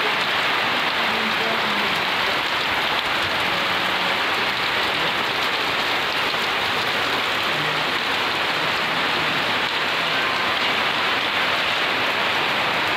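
Heavy rain pouring steadily, a dense, even hiss of downpour.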